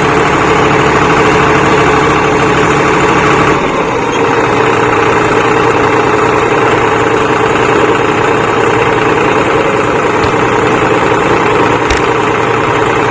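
Tractor engines running steadily; the engine note changes about three and a half seconds in, and there is one short knock near the end.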